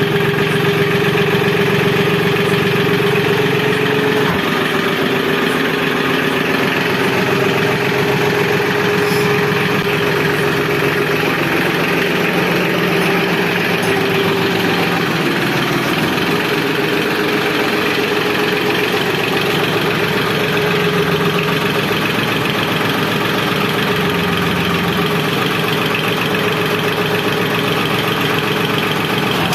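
Massey Ferguson 6026 tractor's diesel engine idling steadily.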